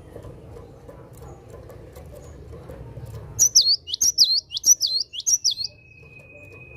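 Cinereous tit (gelatik batu) singing its repeated 'wucit wucit' phrase: a quick run of about six loud, high two-part notes starting about halfway through and stopping after some two seconds.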